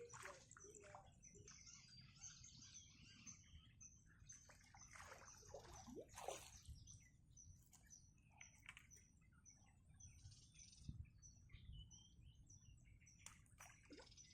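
Faint bird calls and chirps, with one high note repeating about twice a second over a low background hum.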